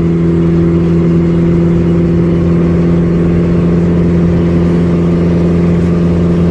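Mitsubishi Lancer Evolution's turbocharged four-cylinder running with no exhaust system, a loud, steady drone at constant engine speed, heard from inside the cabin while cruising.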